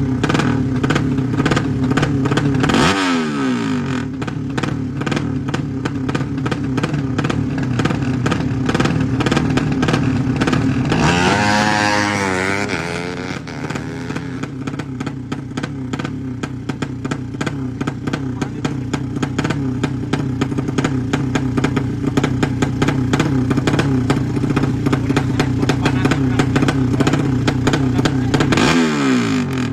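Loud drag-racing motorcycle engines running with a rapid, steady firing beat. The pitch drops sharply about three seconds in and again near the end, and sweeps up and down for a couple of seconds around the middle.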